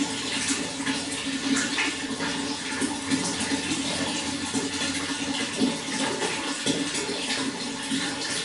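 Running water flowing and splashing steadily, a continuous rushing with many small splashes.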